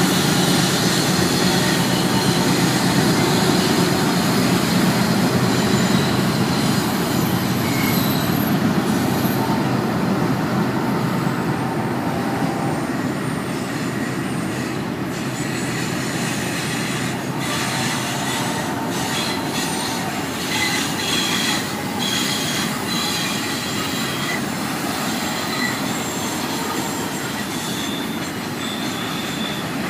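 BNSF intermodal freight train rolling past, a steady rumble of cars and wheels on the rails. Thin, high-pitched wheel squeal comes and goes through the second half.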